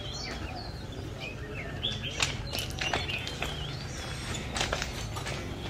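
Small birds chirping and twittering in many short, quick calls, over a steady low rumble of street noise.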